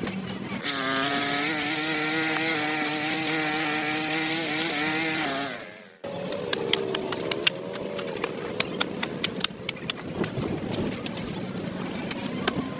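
A small engine runs at a steady high speed, then fades and cuts off abruptly about six seconds in. After that come rapid scattered clicks and scraping over a faint hum.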